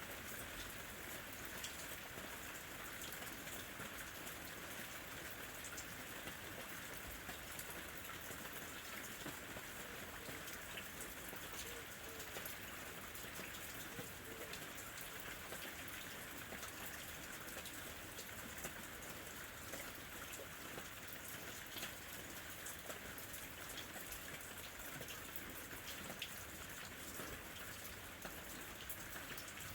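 Steady rain, with many individual drops striking close by as sharp little ticks over an even hiss.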